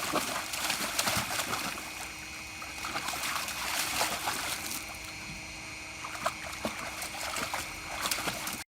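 Water splashing and sloshing in a foldable dog pool as a dog moves about in it, with many irregular splashes. It cuts off suddenly near the end.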